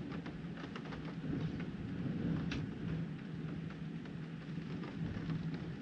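Rain striking a window pane in scattered irregular ticks, over a steady low rumble of the storm outside.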